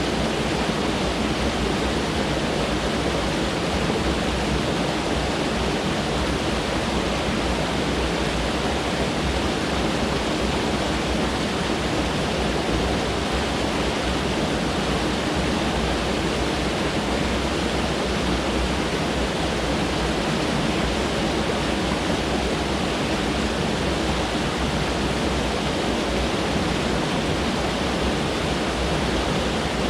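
Mountain stream rushing over rocks: a steady, even rush of running water that does not change.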